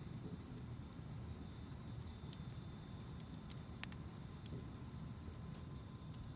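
Wood campfire burning with a low rumble and scattered small crackles, with one sharp pop about four seconds in.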